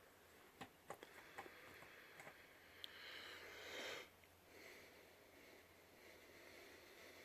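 Near silence, with a few faint clicks early on and a brief soft rustle about three to four seconds in.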